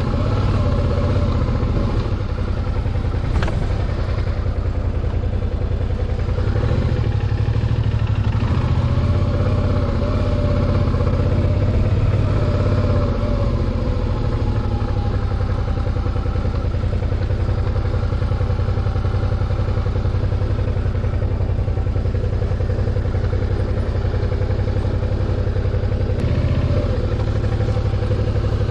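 Motorcycle engine running steadily, a continuous low note with no break.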